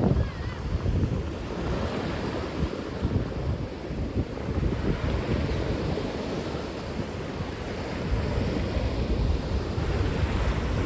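Sea waves breaking on the shore in strong wind, with gusts buffeting the microphone.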